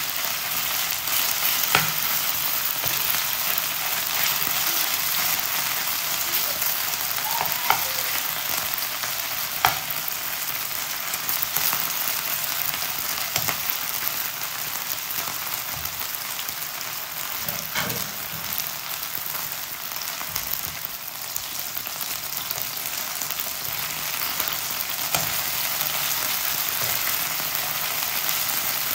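Marinated chicken pieces sizzling steadily in hot sunflower oil in a non-stick frying pan. A steel spoon stirs them, with a few short taps and scrapes against the pan.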